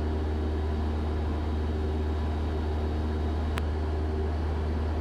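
Cessna 172 Skyhawk's piston engine and propeller droning steadily in the cabin during the approach descent, with one brief click about three and a half seconds in.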